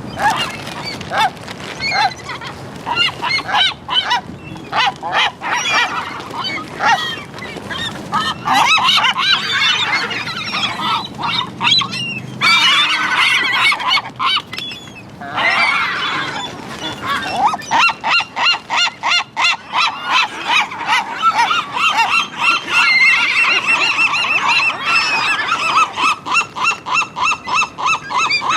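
A flock of seagulls calling: many loud, overlapping calls, with long runs of quick repeated calls in the second half.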